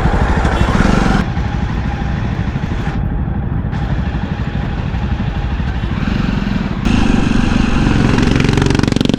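Motorcycle running on the road, a steady low engine rumble mixed with road and wind noise; it gets quieter about a second in and louder again about seven seconds in.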